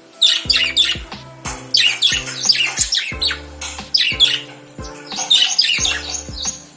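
Pet lovebirds chattering in rapid clusters of short, harsh squawks and chirps, over background music with a steady beat.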